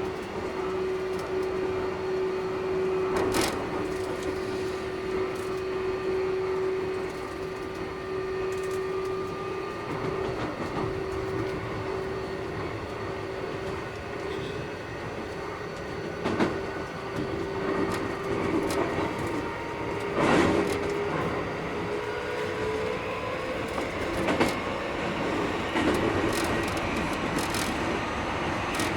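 Running sound of a Keikyu 1000 series train with Mitsubishi IGBT inverter drive, heard from inside the car. A steady motor hum rises in pitch from about two-thirds of the way through, over wheel noise and scattered knocks of wheels crossing rail joints. This trainset sounds a little noisier than others of its class.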